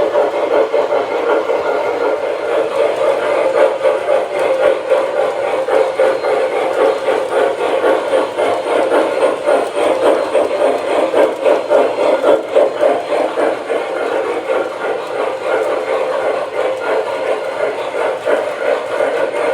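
O-scale MTH Proto-Sound 2 model steam locomotive running, its onboard sound system playing a steady, rapid steam chuff.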